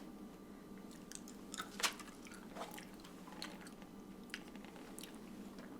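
A person chewing a jelly bean close to the microphone: soft, scattered wet mouth clicks and smacks, one a little louder about two seconds in.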